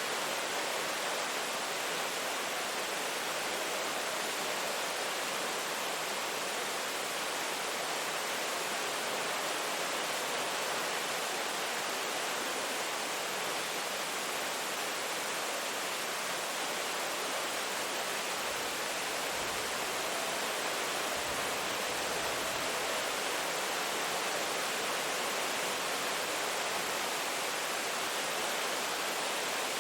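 Steady heavy rain falling: an even, unbroken hiss with no single drops standing out, and a faint low rumble about two-thirds of the way through.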